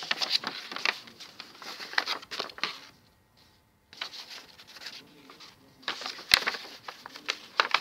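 A sheet of A4 paper rustling and crackling as it is handled and pressed into folds, a run of crinkles and small taps with a pause of about a second roughly three seconds in.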